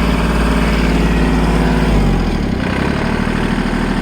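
Tractor engine running steadily, its note changing about halfway through.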